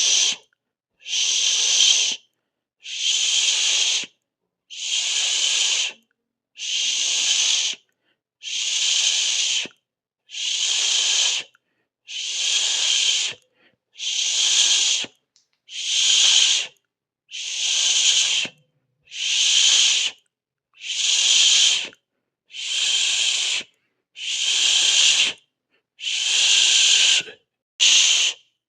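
A person hissing through the teeth over and over, about one hiss a second long every couple of seconds, with short silences between.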